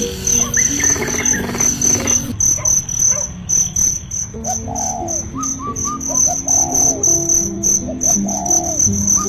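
Crickets chirping in a fast, steady pulsing trill, with repeated short bird calls and low held musical notes underneath.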